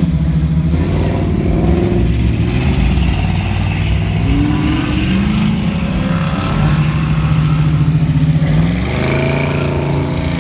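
Car engine running with a steady low note, briefly revved about two seconds in and again near the end.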